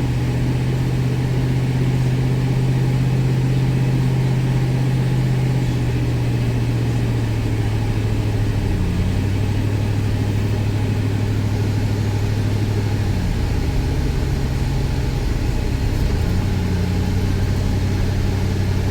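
Road vehicle's engine running under way with road noise, heard from inside the vehicle while climbing a grade; its pitch drops and rises a few times.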